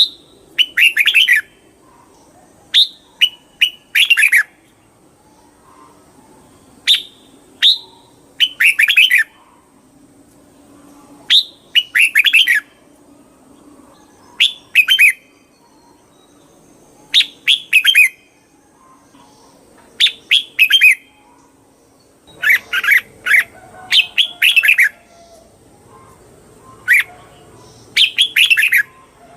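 Red-whiskered bulbul singing: short, loud phrases of quick falling whistled notes, a phrase every two to three seconds, coming closer together near the end.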